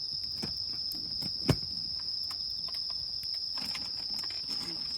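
Crickets chirping in a steady high-pitched trill, with a few light crackles from the wood campfire and one sharp pop about a second and a half in.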